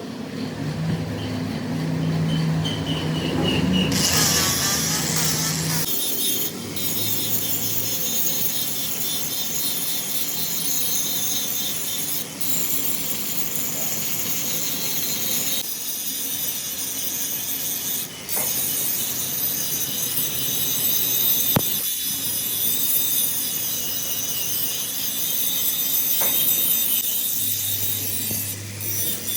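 Steady metalworking machine noise, a scraping hiss of metal being cut. It changes abruptly several times, with a low hum dropping out about six seconds in.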